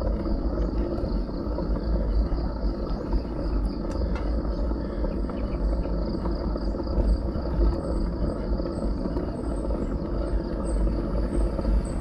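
Wind and riding noise rumbling on a bike-mounted action camera's microphone while cycling along a country road, over a steady high chorus of insects. About halfway through, a short high chirp starts repeating roughly twice a second.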